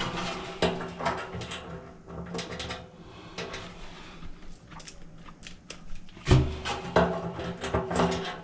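Clatter and knocks of metal parts and screws being handled and fitted during a dryer repair, with several sharp clicks and a louder knock a little after six seconds in.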